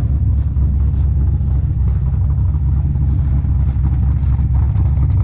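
LS V8 engine swapped into a BMW E46, idling steadily and low through its newly built exhaust.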